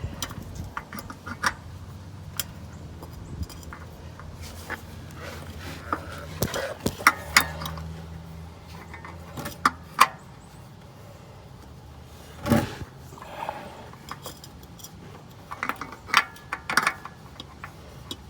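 Scattered metallic clinks, taps and clanks of tools and parts being handled under a truck during an oil change, over a low steady hum.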